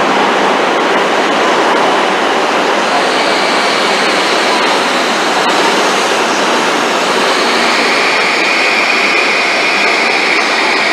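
Shinkansen train pulling away from the platform and gathering speed at close range: a steady, loud rush of running noise, with a high whine that grows stronger about two-thirds of the way through.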